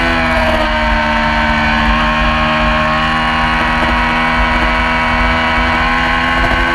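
Yamaha YZF-R6 inline-four sport bike engine running under load at high revs, its pitch climbing slowly as it pulls through a gear. A low wind rumble runs underneath.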